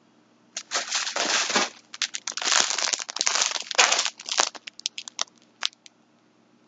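Packaging crinkling and crackling as it is handled, in a dense run for about four seconds, then a few separate crackles before it stops.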